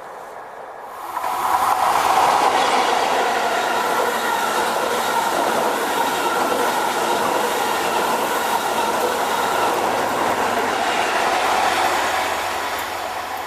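A diesel train passing close by: the sound swells about a second in, holds loud, then fades away near the end.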